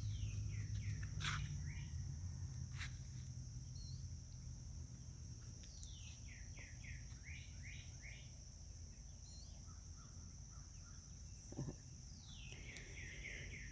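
Outdoor summer insect chorus, a steady high-pitched buzzing, with a bird singing a run of quick falling notes three times. A low hum fades away over the first half.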